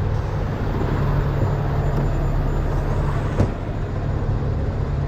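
Heavy-duty diesel truck engine running steadily with a low hum, with a single sharp knock about three and a half seconds in.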